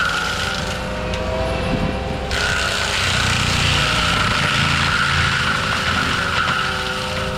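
ASV RT-120F compact track loader running a forestry mulcher head through small pine and gum trees: a steady diesel rumble under a higher whine and hiss that drops away briefly and comes back about two seconds in.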